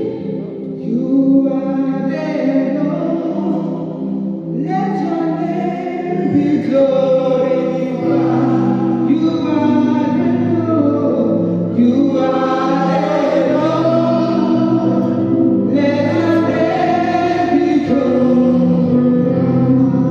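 Gospel choir singing with instrumental accompaniment, in sustained phrases that rise and fall.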